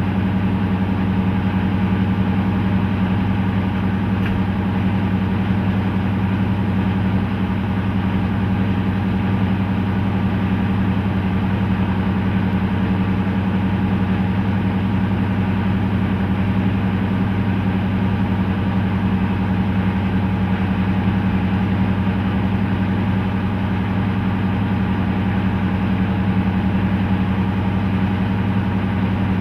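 Class 55 Deltic locomotive 55022 with its two Napier Deltic two-stroke diesel engines running at a steady, unchanging note with a deep hum.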